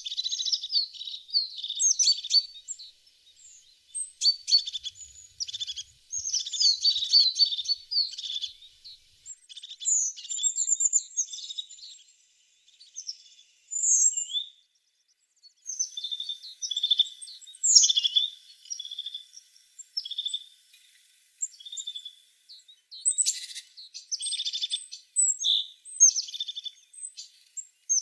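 Tits singing: quick phrases of high chirps and trills, a few seconds each, separated by short pauses.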